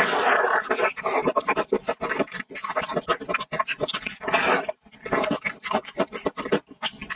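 Close-miked eating of a fried chicken leg soaked in sour-and-spicy noodle broth: dense crackly, wet chewing and biting, with a short break about two-thirds through.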